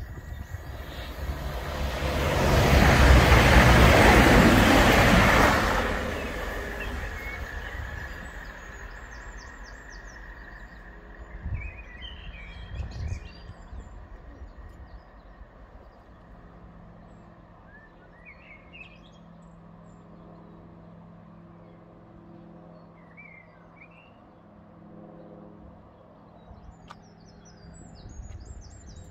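A CrossCountry Class 220 Voyager diesel multiple unit passes at speed on the main line, with a loud rush of wheels and air that builds, peaks and fades away within a few seconds. Afterwards, birds chirp now and then.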